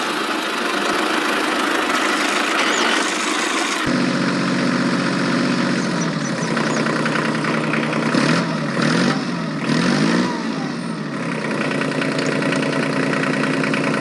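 A small motor running with a noisy mechanical drone. About four seconds in, the sound changes abruptly to a steadier hum whose pitch dips and rises several times.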